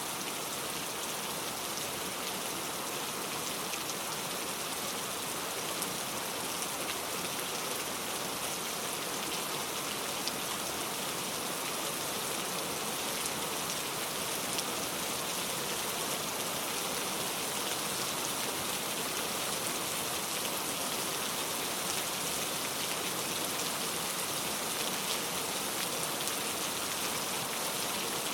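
Steady heavy rain falling and pattering on a surface, a constant hiss with many fine drop ticks, and no thunder.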